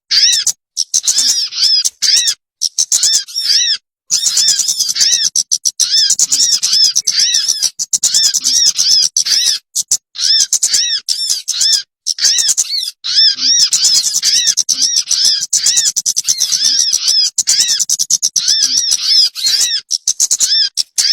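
Bird-lure (pikat) recording of a bird's rapid, high chattering calls: long runs of quick arching notes, many a second, broken by short gaps where the calling cuts off abruptly.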